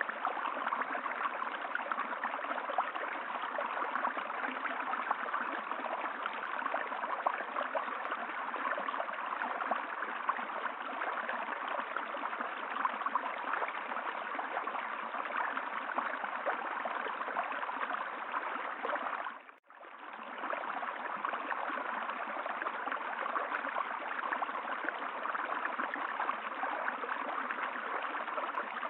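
Steady running water of a stream, an even rushing flow, which dips out briefly and fades back in about twenty seconds in.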